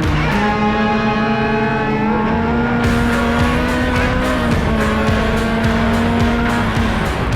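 Off-road race car engine running at high, steady revs, its pitch dipping slightly a little past halfway.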